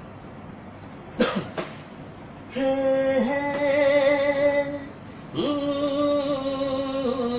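A solo singer's voice holding long, steady sung notes: one lasting about two seconds from a third of the way in, and another starting near the end, opening the next song. About a second in there are two brief sharp sounds.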